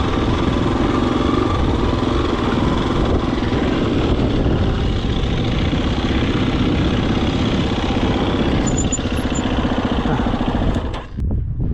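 Husqvarna FE250 single-cylinder four-stroke dirt bike engine running steadily as the bike is ridden. About eleven seconds in, the engine sound drops away and wind on the microphone takes over.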